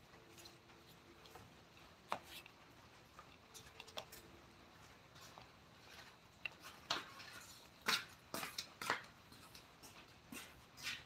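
Scattered light taps and short scrapes of hand tools on wood, irregular and with pauses, busiest in the second half.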